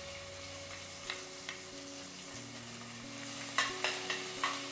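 Crushed green chillies and curry leaves sizzling in hot ghee in a kadhai, stirred with a steel spoon. The spoon scrapes and clicks against the pan a few times, most of them near the end.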